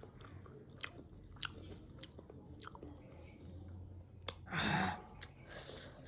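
Close-up mouth sounds of a person chewing and biting aalu nimki, a fried potato snack, with scattered wet clicks. A brief louder noisy burst comes about four and a half seconds in.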